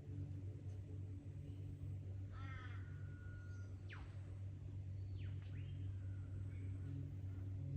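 Australian bush birds calling over a steady low hum: a harsh, crow-like caw about two and a half seconds in, then a held whistle and a sharp, whip-like falling sweep, followed by a few short falling notes.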